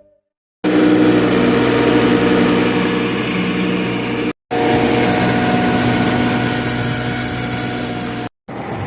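Tractor engine running at a steady speed, cut off abruptly twice for a moment, about halfway through and near the end.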